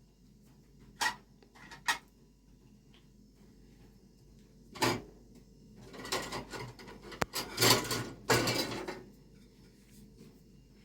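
Objects being handled close by: two short knocks, a louder knock a few seconds later, then about three seconds of scraping and rustling with one sharp click in it.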